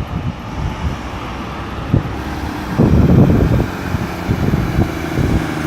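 Road traffic: cars and trucks running past with engine rumble and tyre noise, one vehicle louder as it passes about three seconds in. Wind buffets the microphone.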